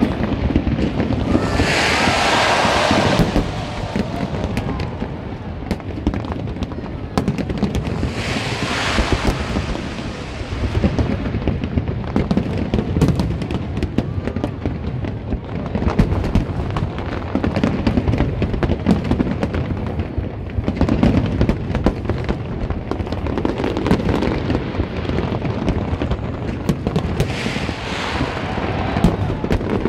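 Large aerial fireworks display: a continuous rumble of booming shells and rapid bangs, with swells of hissing crackle about two seconds in, around eight seconds and near the end.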